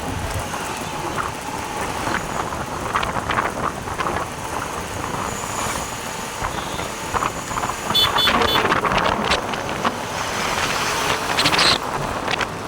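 Road and wind rush from riding a motorcycle, with wind buffeting the microphone and scattered short clicks and knocks.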